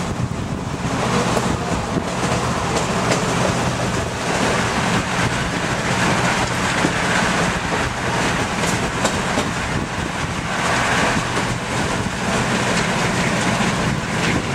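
Passenger car of a diesel-hauled excursion train rolling along the track, heard from an open window: a steady rumble and rattle of wheels on rails, with scattered clicks over the rail joints.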